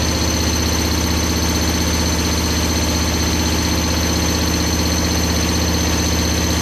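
Hoover Dynamic Next washing machine on its spin cycle, vibrating so hard that it walks across the floor: a loud, steady drone with a fast rattle. This is the excessive spin vibration that the owner calls a design fault.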